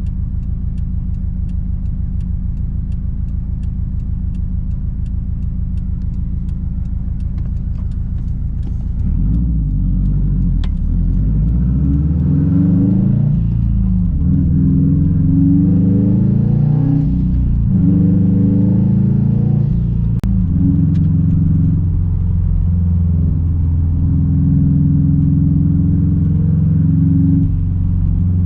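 Straight-piped 2006 Subaru WRX STI's turbocharged 2.5-litre flat-four exhaust, running steadily at low revs with a light regular ticking. About nine seconds in it pulls away, the revs climbing and dropping several times through the gears, then settle to a steady cruise.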